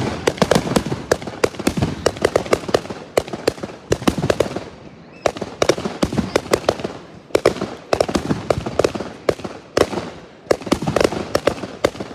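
Fireworks going off: rapid strings of sharp cracks and bangs in runs of a few seconds, with short lulls between them, about five seconds in and again near ten seconds.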